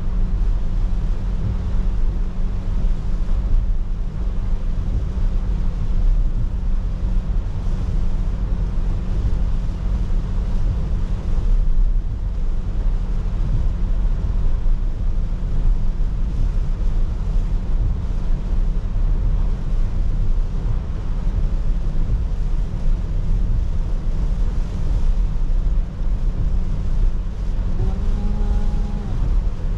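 Steady road noise of a car driving in rain, heard from inside: a low engine and tyre hum with a hiss of wet road and rain. Near the end a short tone sounds for about a second.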